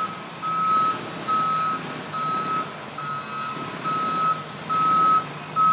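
Cement truck's backup alarm beeping steadily, a single tone about once a second, over the low hum of the truck's engine.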